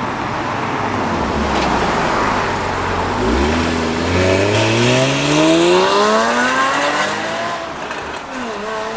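Porsche Cayman's naturally aspirated flat-six, fitted with Fab Speed headers and K&N air filters, accelerating hard. From about three seconds in, the engine note climbs steadily through the revs for about four seconds. Near the end the revs drop back, as at a lift-off or gear change.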